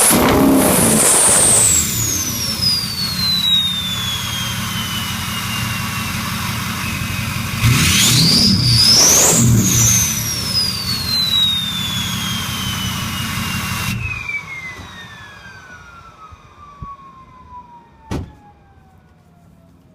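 A 6.0 Powerstroke V8 turbo-diesel through a straight-pipe exhaust is blipped twice. Each time the upgraded Garrett turbo whistles up high, then whines down slowly. About two-thirds of the way in the engine note stops, and the turbo whine keeps falling as it spins down, with a single click near the end.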